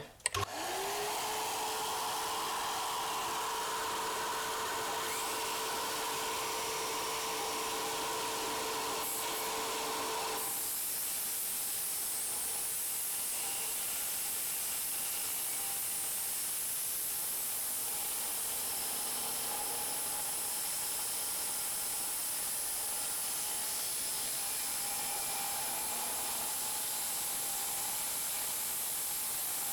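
Vacuum cleaner connected by hose to a circular saw, starting up with a rising whine that settles into a steady motor tone over a constant rush of air. About ten seconds in the whine drops away and a brighter, steady hiss of air through the hose continues.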